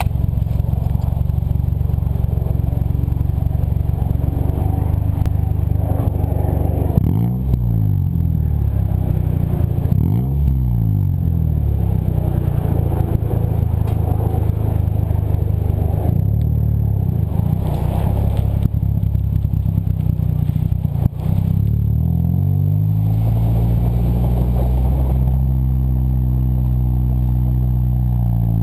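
1998 Toyota Corolla's four-cylinder engine running through a straight-piped exhaust with no muffler, idling with a steady drone. It is blipped twice, about seven and ten seconds in, each a quick rise and fall in pitch. A sharp click comes near twenty-one seconds, and after it the engine settles into a different steady note.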